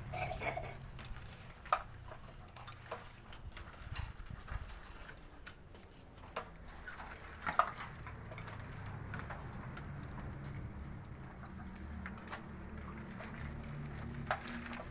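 Small bird fluttering and hopping: irregular wing flaps and light taps, with a few faint high chirps in the second half, over a steady low hum.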